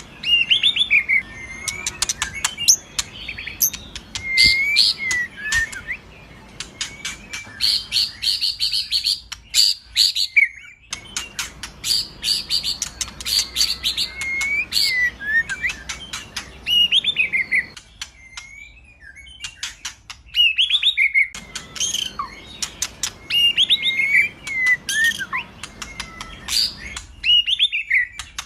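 White-rumped shama (murai batu) singing in full, vigorous song: varied phrases of slurred whistles alternating with fast, harsh rattling trills, with short breaks between phrases.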